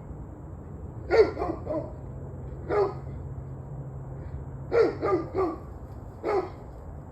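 A dog barking, eight barks in all: a quick run of three about a second in, a single bark, another run of three around the middle, and one more near the end. A steady low hum runs underneath.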